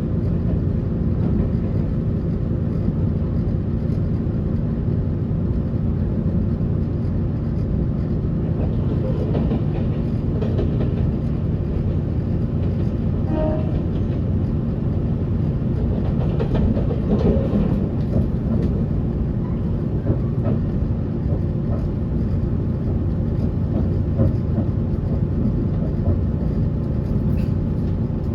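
Passenger train running at speed, heard from inside the carriage: a steady low rumble of wheels on rail with a droning hum.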